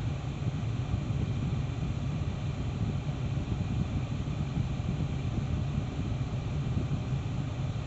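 Steady, loud white-noise static from a faulty Eonon car head unit playing through the car's speakers, a sign of the unit crashing.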